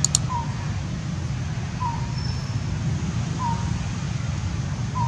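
Outdoor ambience with a steady low rumble. A bird repeats one short, falling call about every second and a half. Two sharp clicks come right at the start.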